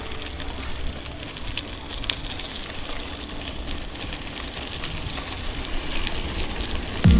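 Steady outdoor hiss and low rumble heard while riding a bicycle on a rural road, with scattered faint clicks.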